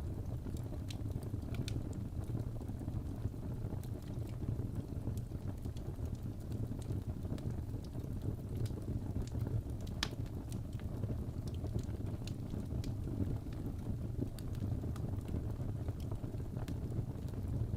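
Fireplace fire crackling: a steady low rumble of flames with scattered sharp pops, the loudest about ten seconds in.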